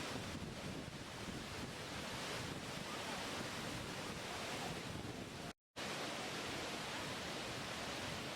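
Steady rushing of falling or moving water, an even hiss with no distinct events. It cuts out completely for a split second about five and a half seconds in, then resumes unchanged.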